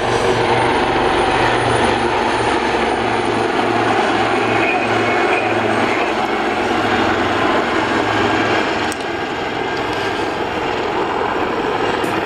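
Two AgustaWestland Wildcat HMA2 helicopters flying past with a steady rotor and twin-turbine sound, easing slightly about nine seconds in.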